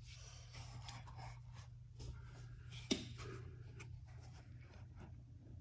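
Faint scraping and handling noises of car parts and tools being refitted after a battery change, with one sharp click about three seconds in, over a steady low hum.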